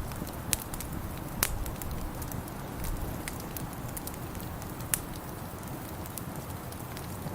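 Wood fire in a fireplace crackling, with scattered sharp pops (two louder ones about one and a half and five seconds in) over a steady low rumble.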